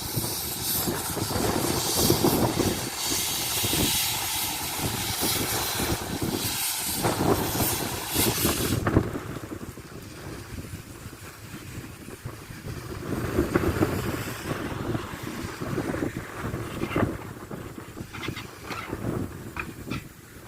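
Narrow-gauge train running, with a loud hiss over a low rumble for the first nine seconds or so. After that it goes quieter, a lower rumble broken by scattered sharp clicks.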